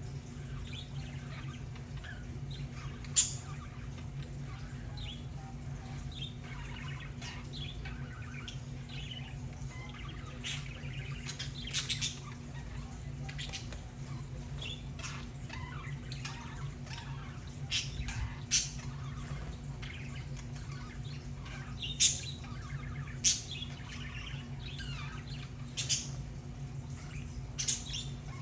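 A flock of budgerigars chattering with soft warbling chirps, broken by about seven sharp, louder calls spread through. A steady low hum runs underneath.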